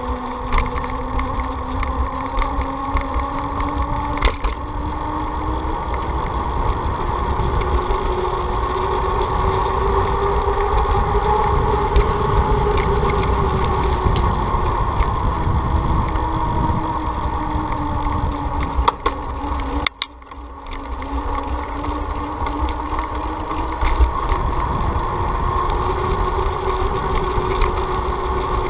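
Riding noise: wind rushing over the microphone, with a steady hum that slowly rises and falls in pitch as the speed changes. The sound drops out briefly about twenty seconds in.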